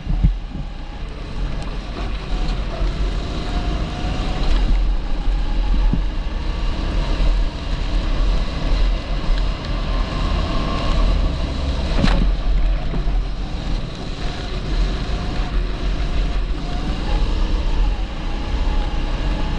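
A 270cc TB kart engine running under changing revs, rising and falling, with heavy wind buffeting on the microphone. A sharp knock comes about twelve seconds in.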